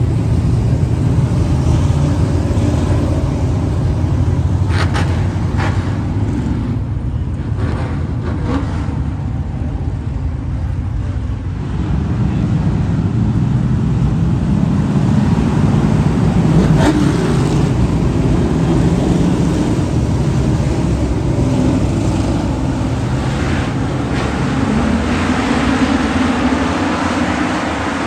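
Motor vehicle engines running with a steady, loud low rumble.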